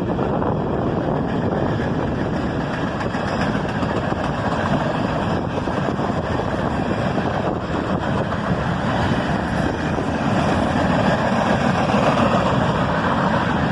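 Freight train rolling past: a steady noise of steel wheels on rail, growing a little louder near the end.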